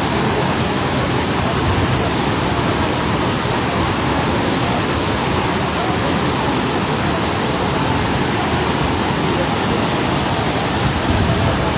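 Floodwater rushing in a loud, steady, unbroken roar.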